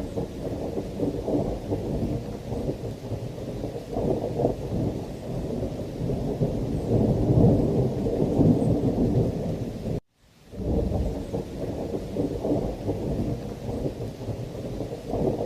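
Thunderstorm: heavy rain with a deep, continuous rumble of thunder that swells in the middle. About ten seconds in the sound cuts out to silence for a moment, then fades back in.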